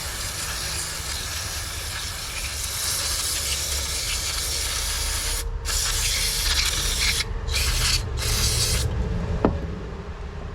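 Aerosol carb cleaner spraying onto a lawnmower carburetor: one long hiss of about five seconds, then three shorter bursts. The spraying stops near the end, followed by a single sharp click.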